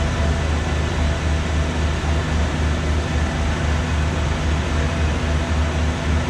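Train noise at a railway station: a steady low rumble and hum with constant noise over it, no distinct events.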